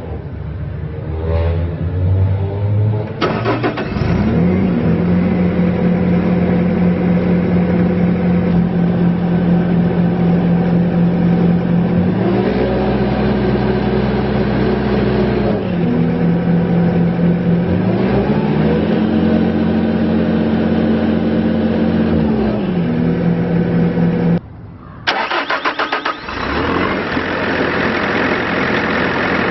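Bobcat S530 skid steer's diesel engine cranking and catching about three seconds in, then running steadily with its speed stepping up and down several times as it is throttled. Near the end the sound briefly drops, then returns busier and louder.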